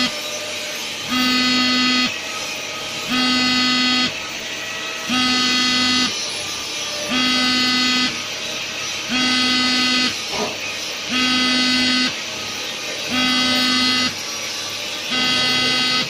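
An alarm buzzer sounding a low, harsh tone about a second long every two seconds, over a steady background hiss.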